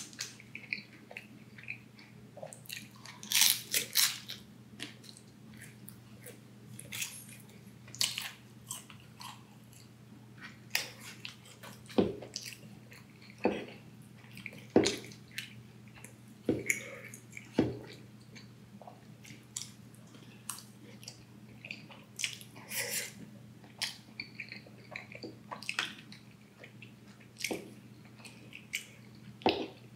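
A person chewing food close to the microphone: irregular wet mouth smacks and clicks, some louder bites, over a faint steady low hum.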